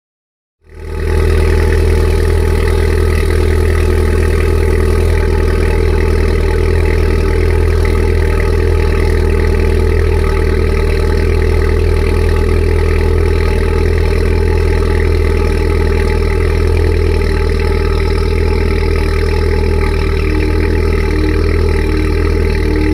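VW Golf GTI Mk5's turbocharged 2.0-litre four-cylinder idling through a straight-piped exhaust, loud and steady. The sound cuts in about half a second in and holds at an even pitch throughout.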